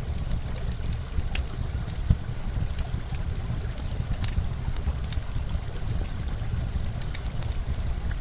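Campfire crackling with scattered sharp pops over a steady low rush of running water.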